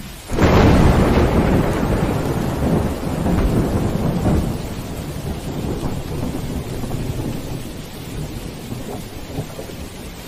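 Thunderstorm ambience. A thunderclap breaks about half a second in and rumbles away over several seconds, a second rumble swells around four seconds in, and steady rain falls throughout.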